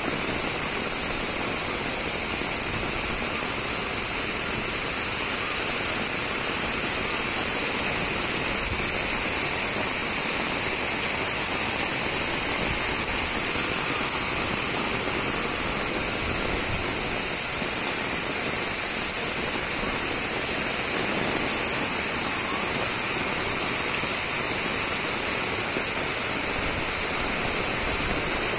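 Torrential rain pouring down steadily, falling on trees and on a flat concrete rooftop awash with water.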